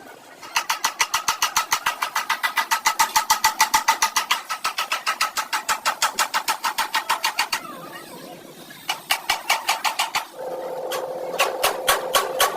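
Car engine being cranked on its starter: a fast, even rhythm of strokes for about seven seconds without starting. After a short pause it is cranked again in briefer tries, with a steady tone joining near the end.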